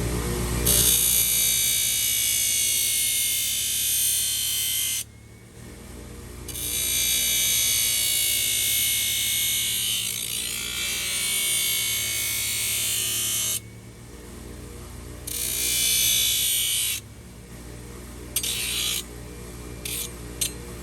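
Power tool grinding or sanding the hoof wall in long runs of several seconds each, with a few short touches near the end, over steady background music.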